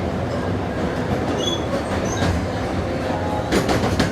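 Steam train's passenger car running along the track with a steady rumble, and a short run of wheel clacks near the end.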